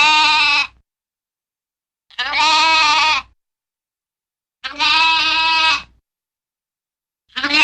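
A farm animal bleating in separate calls of about a second each, with a quavering pitch and silence between them: three calls, and a fourth starting near the end.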